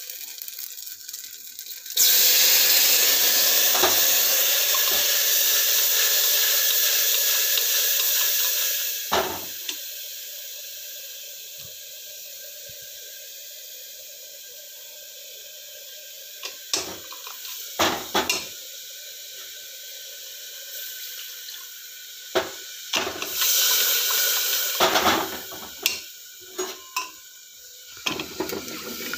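Food sizzling in hot oil in a pan. A loud hiss starts suddenly, eases after several seconds into a steady softer sizzle, and flares up again later. A few metal clinks of a utensil against the pan come in between.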